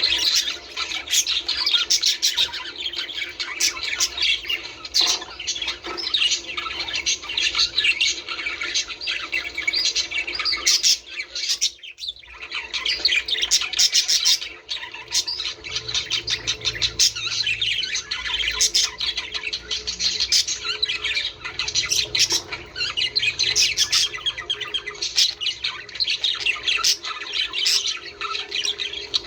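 A flock of budgerigars chattering, chirping and squawking without pause, with a short lull near the middle.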